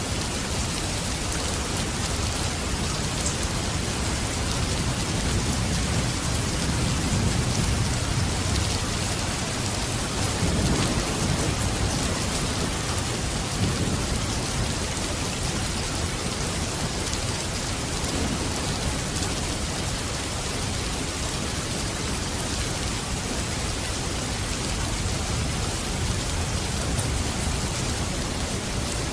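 Steady heavy rain hissing, with low thunder rumbling in the middle, swelling from about six seconds in to about fourteen and once more briefly a few seconds later.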